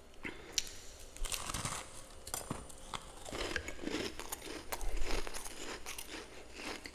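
Freezer frost being bitten and chewed: a run of irregular crunches, the loudest about five seconds in.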